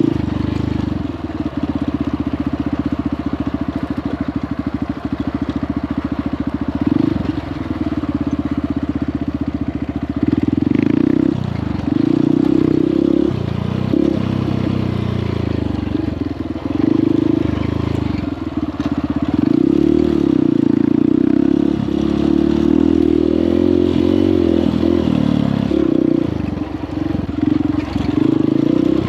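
Honda CRF150L dirt bike's single-cylinder four-stroke engine running under a rider's throttle. The engine note rises and falls, dipping several times as the throttle is eased off and opened again.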